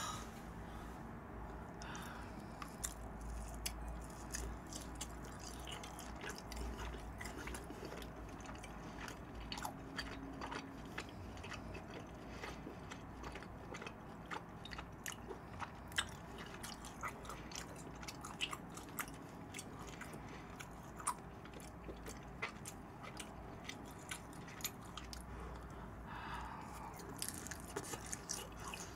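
A person chewing grilled Korean beef striploin close to the microphone: wet, irregular mouth clicks and smacks, several a second.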